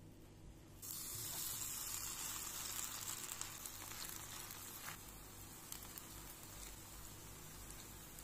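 Grated potato pancakes sizzling in hot oil in a frying pan. The sizzle starts suddenly about a second in and eases a little after about five seconds, with a few light clicks.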